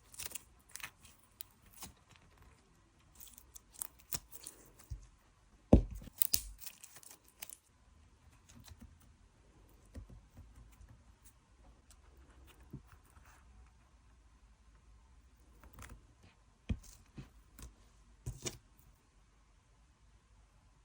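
Butter-fizz texture slime being squeezed, stretched and poked by hand, giving irregular little clicks, pops and crackles. The loudest is a sharp pop with a low thud about six seconds in. There is a quieter stretch in the middle and another cluster of pops near the end.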